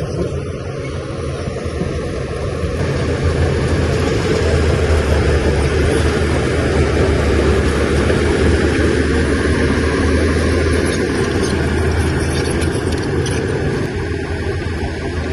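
Shantui bulldozer's heavy diesel engine running steadily. It grows louder about three seconds in, as if under working load, and eases back a little near the end.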